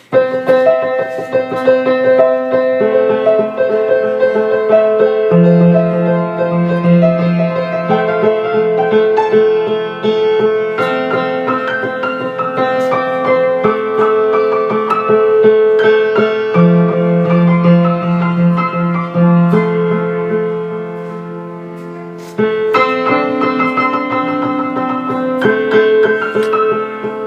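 Keyboard playing a piano tune made of long held notes and chords. Around two-thirds of the way through it fades briefly, then starts up again suddenly.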